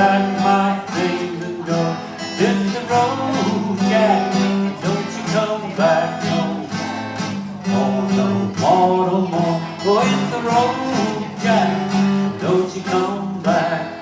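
Acoustic guitar strumming with a singing voice: a song performed live.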